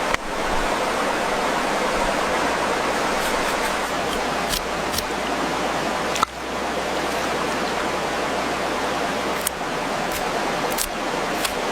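Steady rushing of running water, with a few faint clicks over it and a brief break about six seconds in.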